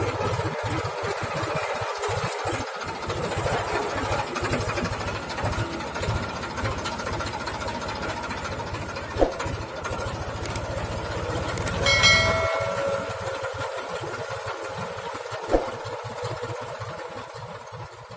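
Tractor diesel engine running steadily with a low, rapid pulsing, with two sharp knocks and a brief high-pitched tone about twelve seconds in; the sound fades out at the end.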